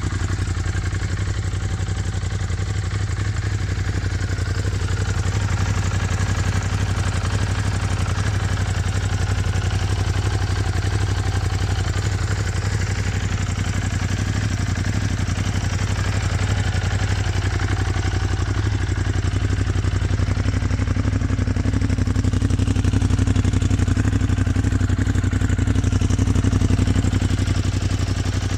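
Ducati Monster 821's 821 cc L-twin engine idling steadily.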